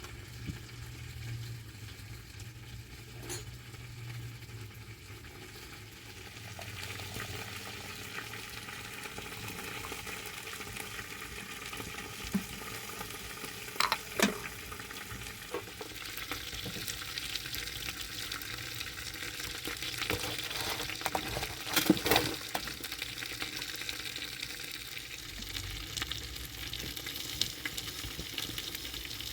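Chicken sizzling as it cooks over an open wood fire: a steady frying hiss that grows about seven seconds in and again past the halfway mark, with a few sharp knocks or pops along the way.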